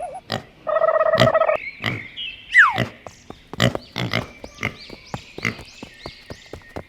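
Edited cartoon-style sound effects: a string of sharp pops and clicks, a buzzy pitched honk about a second in, and a quick falling whistle a little after two and a half seconds.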